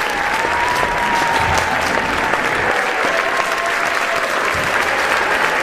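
Large audience applauding steadily, with long held cheers rising over the clapping.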